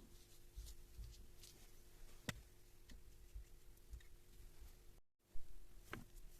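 A few faint, scattered clicks and taps over a steady low hum, with a sudden break about five seconds in followed by a louder knock.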